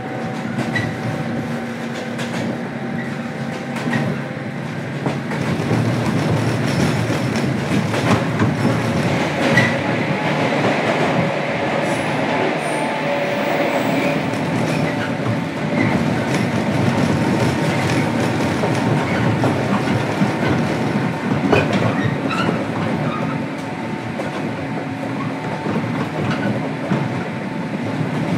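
Interior running sound of a JR Kyushu 103 series electric multiple unit, heard from inside the motor car (MoHa 102) while the train is under way. There is a steady rumble of wheels and running gear with occasional clickety-clack knocks over rail joints, and it grows louder about five seconds in.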